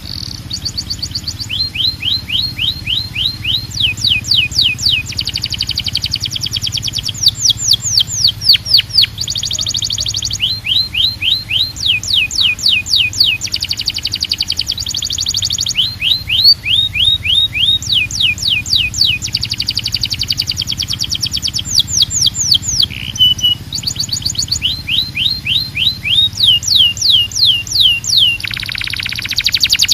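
Belgian canary singing continuously, switching between phrases of quick downward-sweeping whistled notes, several a second, and short buzzy trills held on one pitch. A faint steady low hum runs underneath.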